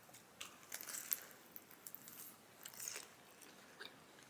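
Crunching and chewing on a fried chicken egg roll, a few crisp crunches about half a second in and again near three seconds.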